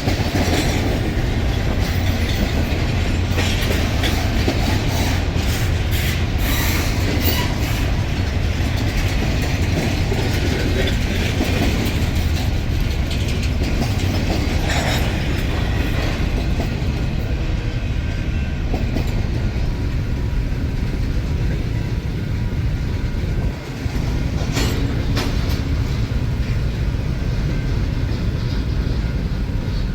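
A train's cars rolling past at close range: a steady heavy rumble, with wheels clicking over rail joints at irregular intervals and a faint wheel squeal.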